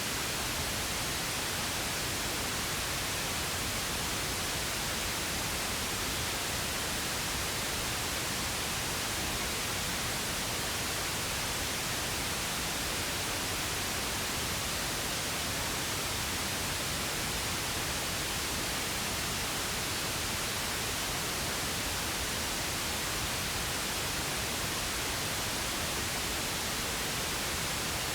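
Pink noise: a steady, unchanging hiss spread evenly across the whole range, with equal energy per octave, softer and less harsh than white noise.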